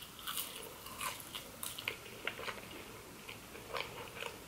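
Close-miked mouth sounds of a man chewing French fries dipped in cheese sauce: quiet, irregular wet smacks and clicks.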